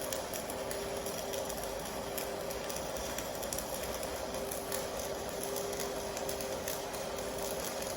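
TIG welding arc from an AC/DC inverter welder, a steady buzzing hum with two held tones and light crackle.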